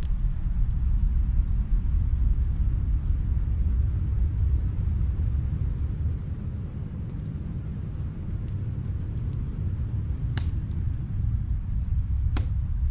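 Fireplace crackling: small scattered crackles and two louder pops near the end, over a deep steady rumble.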